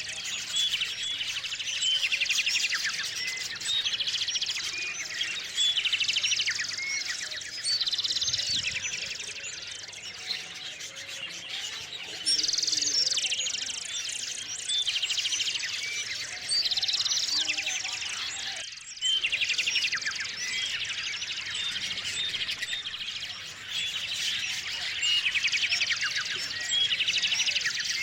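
A chorus of small songbirds chirping and trilling, with rapid, buzzy trill phrases coming back every few seconds over a steady background of chirps. The sound drops out briefly about two-thirds of the way through.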